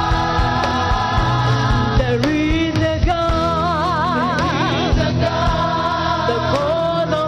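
Church choir singing a gospel song over band accompaniment with a steady beat; a sustained lead note with wide vibrato comes in the middle.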